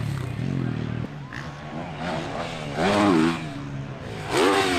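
Motocross bikes revving hard, their pitch climbing and dropping with each burst of throttle and gear change. The loudest surges come about three seconds in and again near the end.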